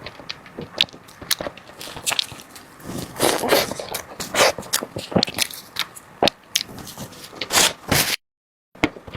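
Close-miked eating of desserts: a run of wet clicks and mouth sounds, with louder crunchy bites about three, four and a half and seven and a half seconds in. The sound cuts out completely for about half a second near the end.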